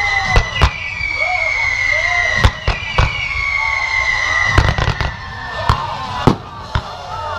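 Aerial fireworks going off: several long high-pitched whistles overlap and slide slowly down in pitch, with sharp bangs going off at irregular intervals, about a dozen in all.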